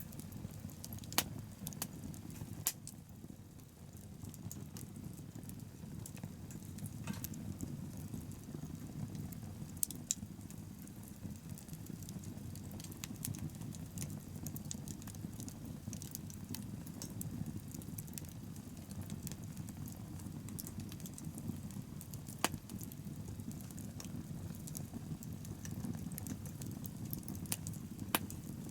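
Wood bonfire burning with a steady low rumble of flames and scattered sharp crackles and pops from the burning wood.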